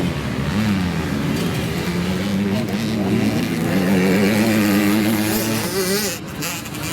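Motocross bike engine revving on the track, its pitch rising and falling with the throttle; it is loudest about two-thirds of the way through, then drops away near the end.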